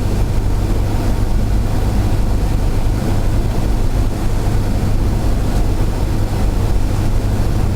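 Cessna 172's single piston engine and propeller droning steadily, with rushing airflow, heard inside the cabin.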